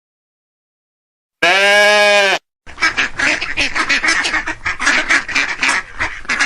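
A second-long steady call, then from about halfway in a flock of ducks quacking rapidly and continuously.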